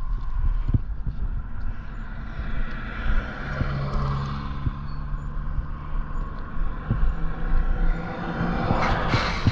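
Road traffic: a motor vehicle's engine hum holds steady through the middle, and a louder rush of a passing vehicle swells near the end, over a constant low rumble.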